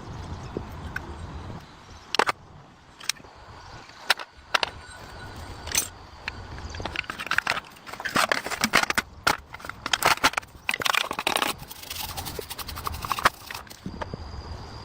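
Irregular clicks and knocks of hand work, with a busy stretch of scraping and rattling in the middle.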